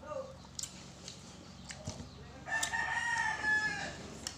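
A rooster crowing once, a held call of about a second and a half that starts about halfway in and drops slightly in pitch at the end.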